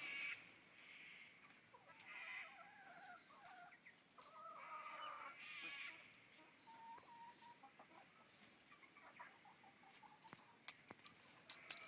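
Australian king parrots giving soft chattering calls while feeding, with a few sharp clicks near the end.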